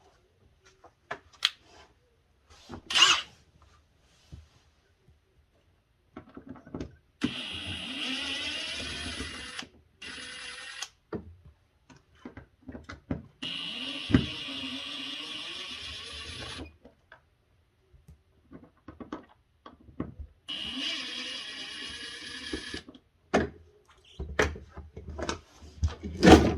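Cordless drill-driver running in three separate bursts of a few seconds each, backing out the three screws of a refrigerator evaporator fan cover. Clicks and knocks from handling the panel and screws come between the bursts, with a sharp knock early on and another near the end.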